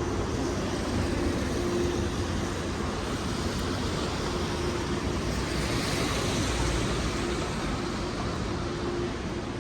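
Rainy city street ambience: a steady hiss of traffic on wet roads with a low rumble, and one vehicle swelling past about six seconds in.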